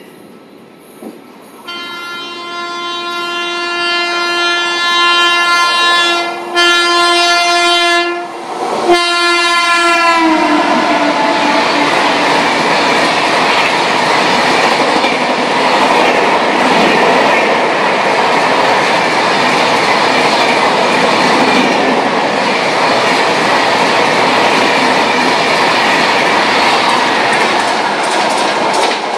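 WAP-7 electric locomotive sounding a long, steady horn as it approaches, with a short break partway, its pitch dropping as the locomotive passes about ten seconds in. Then the loud, steady rush and clickety-clack of the Poorva Express's LHB coaches running through at speed.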